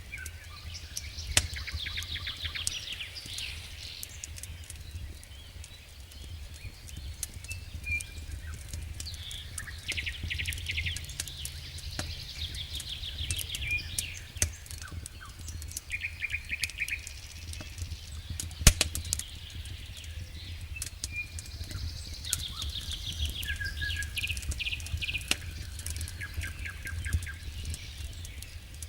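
Wood fire crackling in a fireplace, with scattered sharp pops (one louder pop a little past halfway) over a steady low rumble. Small birds' rapid chirping trills come and go every few seconds.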